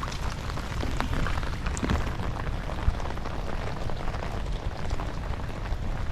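Heavy rain falling steadily, with many sharp drop impacts close to the microphone over a continuous hiss, and a low rumble underneath.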